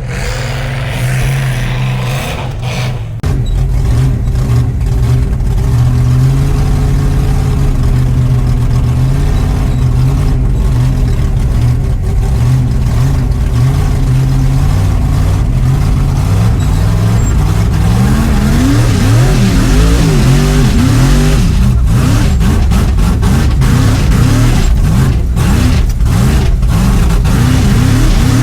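Truck engine running loud and steady, then, about two-thirds of the way in, revving up and down repeatedly.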